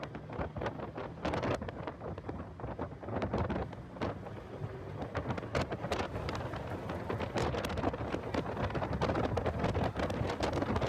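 Heavy wind noise buffeting the microphone of a car lapping a track at speed: a continuous rumbling rush broken by many sharp crackles.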